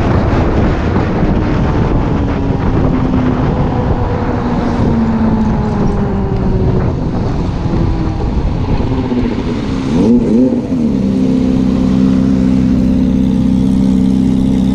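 Motorcycle engine running, its pitch slowly falling for about ten seconds, then a quick blip of the throttle up and back down, after which it settles into a steady idle.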